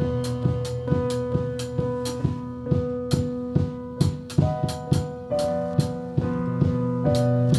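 Live band playing an instrumental passage: a drum kit keeping a steady beat of about two hits a second under sustained bass and keyboard notes.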